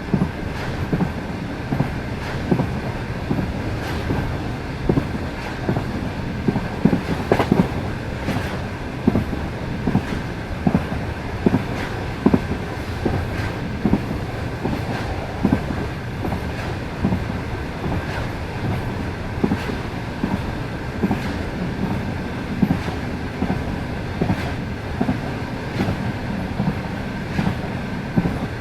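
Passenger train running at speed, its wheels clicking over the rail joints every second or so over a steady rumble.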